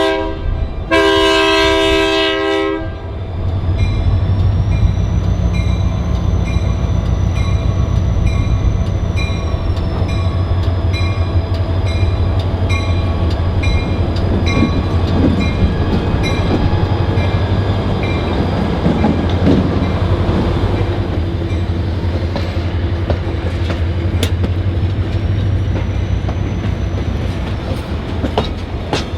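Diesel locomotive BNSF 6976 departing with the Nebraska Zephyr: a horn blast cuts off right at the start and a second of about two seconds follows, then the diesel engine runs steadily as the train rolls along, with wheels clicking over the rail joints and a faint high whine that rises and falls.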